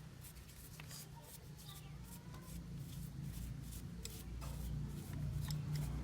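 Scattered small clicks and scraping over a low, steady hum that grows a little louder in the second half.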